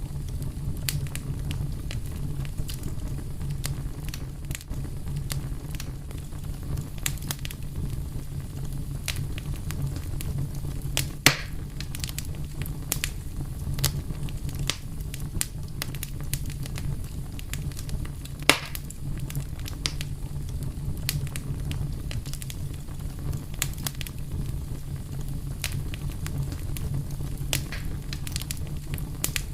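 A fire crackling steadily over a low rumble, with many small crackles and two louder pops, about eleven and eighteen seconds in.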